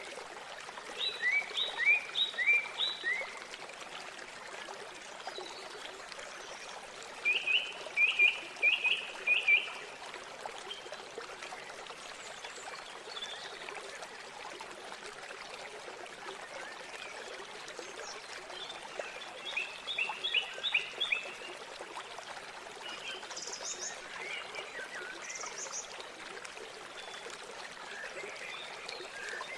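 River water flowing steadily, with loud bursts of four or five short, quick animal calls every several seconds, about four bursts in all.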